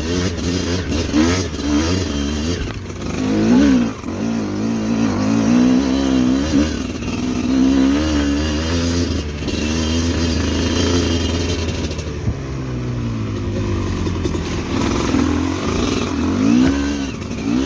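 Motorcycle engine running under load, its pitch repeatedly rising and falling as the throttle is worked, with a few sharp knocks in the first few seconds.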